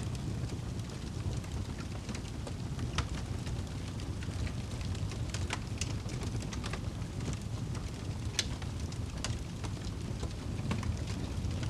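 Campfire crackling, with sharp irregular pops over a steady low rumble of burning wood.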